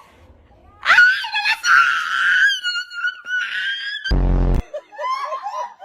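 A high-pitched, wavering scream lasting about three seconds, then a short loud low buzz about four seconds in, followed by softer squeaky cries.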